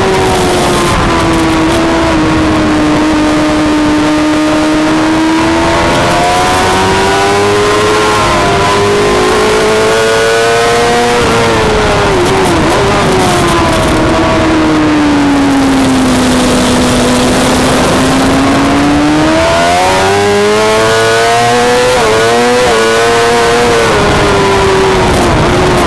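Suzuki GSX-R600 inline-four engine at high revs, heard onboard at racing speed with wind noise, its pitch rising and falling smoothly as the bike goes through the corners. A short dip about twelve seconds in and stepped pitch changes around twenty to twenty-three seconds in are gear changes.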